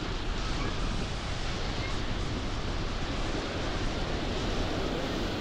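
Strong wind buffeting the microphone over the steady wash of ocean surf on a beach.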